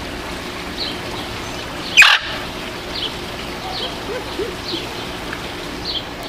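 Captive birds calling: a short, high, downward chirp repeats about once a second, and one loud screech falling in pitch cuts in about two seconds in.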